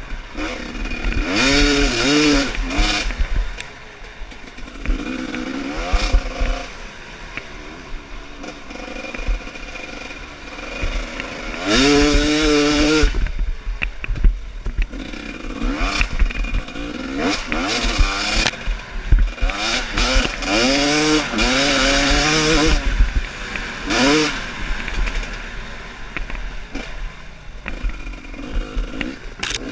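Trail motorcycle engines revving in several short bursts, the pitch rising and falling with the throttle, with lower running in between.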